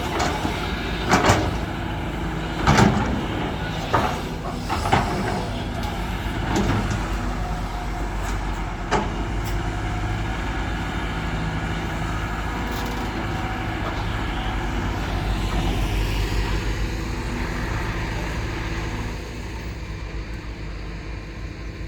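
Motor vehicle running on the road with a steady engine drone, and several loud knocks and rattles in the first nine seconds.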